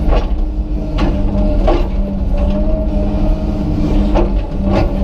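Komatsu PC200 excavator running steadily while digging around a tree stump, with a held engine hum and a steady higher tone. Several sharp knocks come through it, about a second in, near two seconds, and twice near the end.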